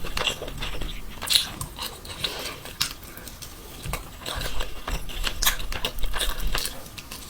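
A person biting and chewing mutton mandi (spiced mutton with rice), giving irregular wet clicks and crunches.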